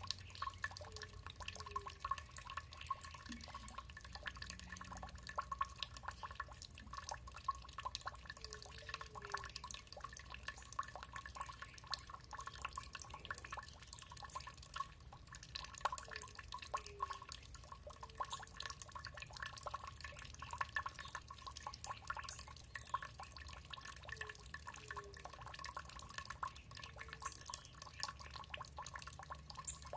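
Water trickling and dripping in a stream of many small, quick drips and splashes. Faint short chirps sound in pairs every few seconds, and a faint steady tone sits underneath.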